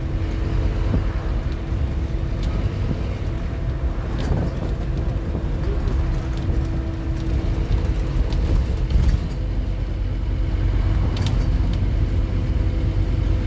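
Scania N230UD OmniCity double-decker bus heard from on board while moving: a steady low drone from its diesel engine and the road, with a held tone and a few light rattles.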